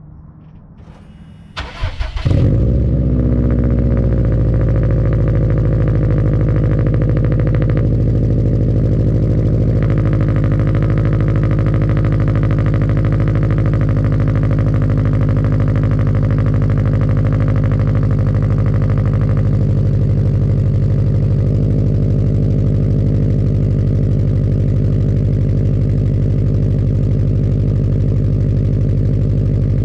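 2020 Subaru WRX STI's EJ257 turbocharged flat-four on a Remark R1 exhaust cold-starting: the starter cranks briefly, the engine catches about two seconds in, then runs at a steady high cold idle with the boxer rumble, settling slightly a couple of seconds after it catches.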